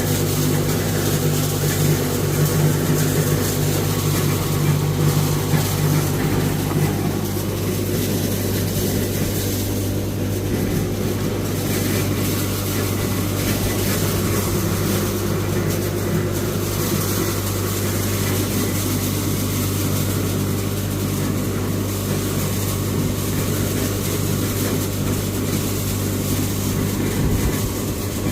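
Steady low engine hum, with one of its lower tones dropping away about seven seconds in.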